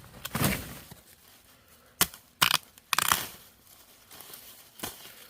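A handful of sudden, sharp rustling and tearing noises, the loudest a cluster about two to three seconds in, with a softer one near the start and a short one near the end.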